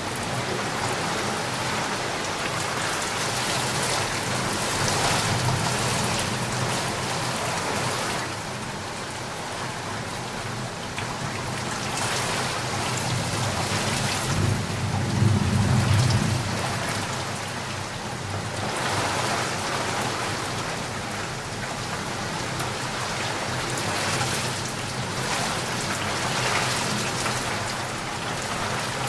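Steady rain falling, swelling and easing slowly, with a low rumble of thunder about halfway through.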